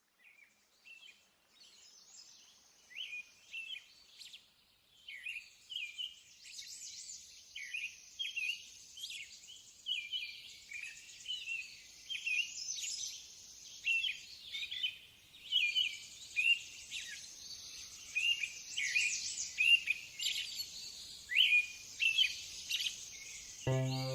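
Birds chirping and singing, many short quick calls fading in from silence and growing louder. Near the end a low droning tone with a stack of overtones comes in underneath.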